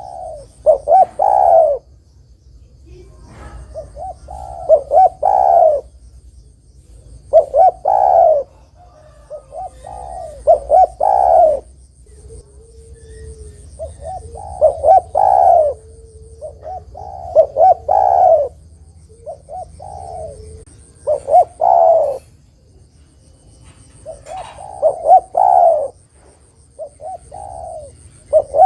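Spotted dove (derkuku, tekukur) cooing: a short phrase of several rhythmic coos, repeated about every three seconds.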